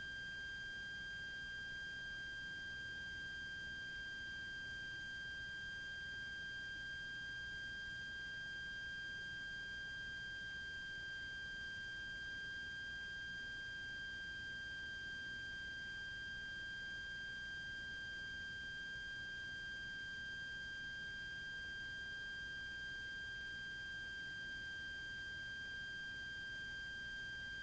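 A steady high-pitched electronic whine, one unchanging tone with fainter overtones above it, over a faint low rumble; the kind of electrical interference tone heard on light-aircraft cockpit audio recordings.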